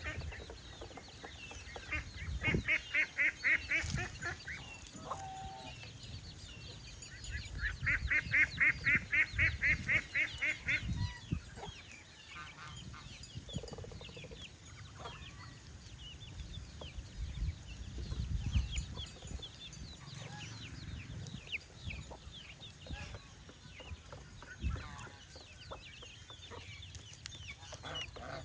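Farmyard poultry calling: two runs of fast repeated clucking calls, one about two seconds in and a longer one about eight seconds in, over scattered small clicks and quieter calls.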